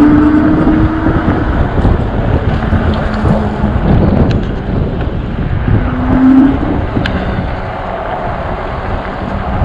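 Wind rushing over the microphone with road rumble from a moving e-bike, under a faint steady low hum. A short steady tone sounds in the first second and another about six seconds in.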